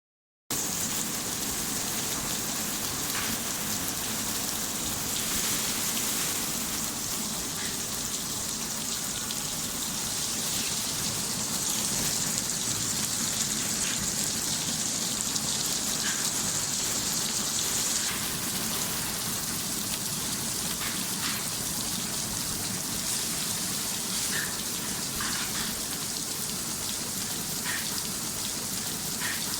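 Water pattering steadily onto a hard surface like heavy rain, with scattered small drip clicks, as the flood light is doused in a waterproof test. The high hiss thins a little about two-thirds of the way through.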